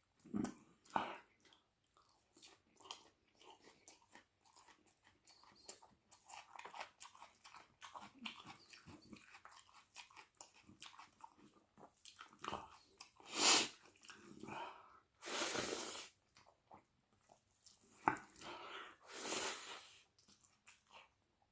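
Close-miked chewing and crunching of chicken wing curry with rice and raw onion: irregular wet clicks and crunches, with a few louder rushing noises, the longest about a second, in the middle and near the end.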